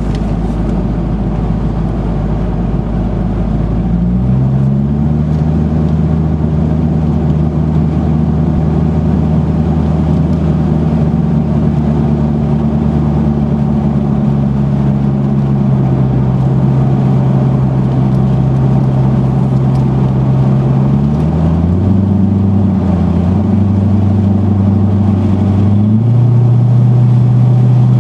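Corvette V8 engine heard from inside the cabin, rising in pitch about four seconds in as the car picks up speed, then running at steady revs over road and wind noise. The engine note shifts twice in the last third and drops near the end.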